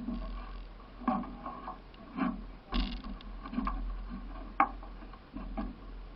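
Solo racing canoe being paddled: the paddle knocks against the hull and dips into the water about once a second, with sharper clicks now and then.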